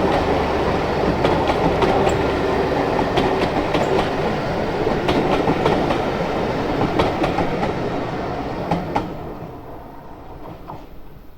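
Train running on the line: a steady rumble with sharp wheel clicks over the rail joints, fading away near the end.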